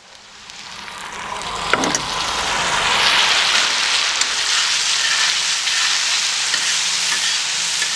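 Tomatoes frying in hot oil with browned onions in a pan: a sizzle that builds over the first three seconds and then holds steady, with one light knock about two seconds in.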